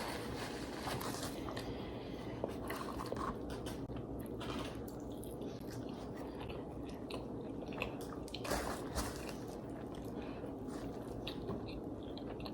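People chewing and biting food close to the microphone: scattered small wet mouth clicks over a low steady background hum, a little louder about two-thirds of the way in.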